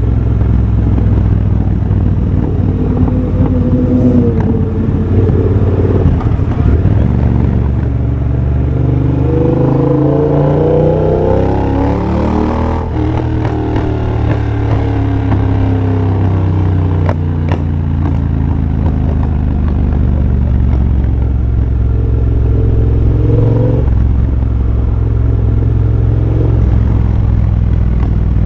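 2023 Triumph Bobber's 1200 cc parallel-twin engine running loud through a de-catted X-pipe and a Motone Shorty exhaust while being ridden, its pitch climbing for several seconds around the middle and then dropping sharply, with another short dip a few seconds from the end.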